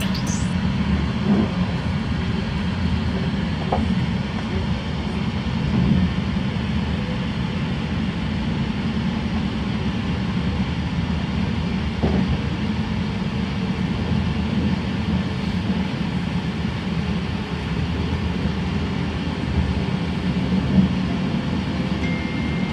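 Steady rumble of an electric passenger train running on the rails, heard from inside the carriage, with a few faint clicks from the wheels over rail joints.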